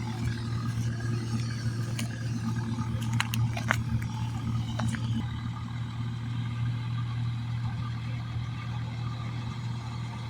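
Tractor engine running steadily under load, with a few sharp clicks or rattles a couple of seconds in.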